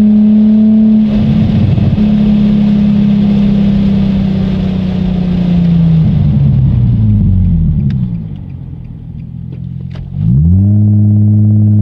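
Car engine at speed, heard from inside the cabin on a race track: a steady high note that breaks about a second in and then eases slowly down. The note falls in steps around six to eight seconds in and the engine goes quieter for a couple of seconds, then the revs climb sharply and hold near the end.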